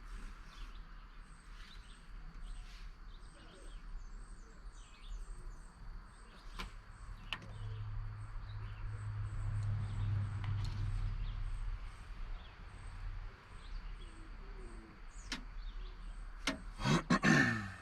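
Small birds chirping faintly in the background, with a few sharp clicks from parts being handled. A low hum swells and fades midway, and a short, louder sound comes near the end.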